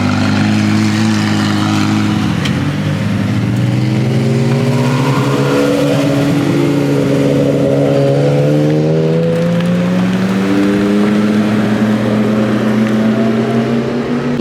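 Car engine running under light throttle, its pitch steady at first, then climbing slowly and evenly for about ten seconds as the car pulls away.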